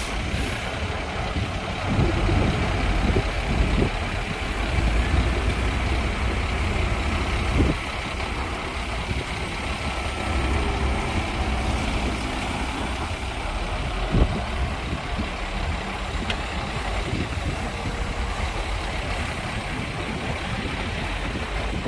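Heavy diesel construction machinery running with a steady low rumble, broken by a few sharp knocks and thuds.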